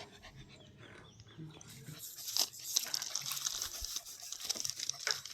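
American bully puppy lapping and splashing in water: a rapid, crackly splashing that starts about two seconds in and keeps going.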